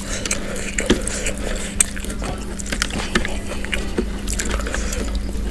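Close-miked chewing and biting of fried free-range chicken with rice and sambal: wet, squishy mouth sounds with many small clicks and smacks, over a faint steady hum.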